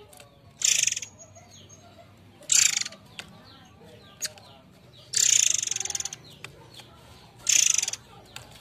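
Murai air bird giving harsh, rasping, rattling calls: four high-pitched bursts, the third of them the longest, with faint chirps between them.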